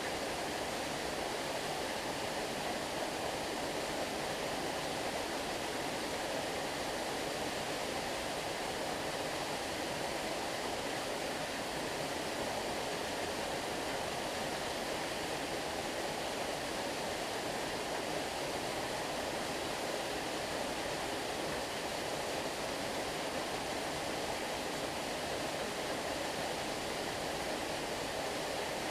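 Stream water flowing in a steady, even rush with no breaks or changes.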